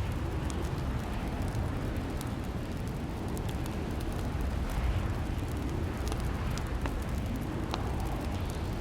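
Crackling fireplace: a steady low rumble of burning with scattered small crackles and pops.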